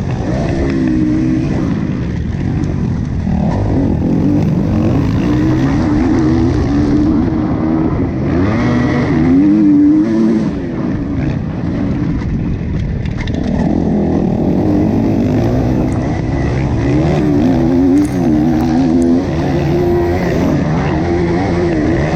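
Motocross bike engine revving hard as it is ridden around the track, its pitch rising and falling again and again with the throttle and gear changes.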